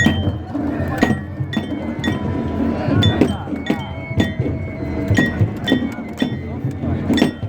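Japanese festival hayashi music: a small metal gong clinking steadily about twice a second over low drumming and a high, held melody line.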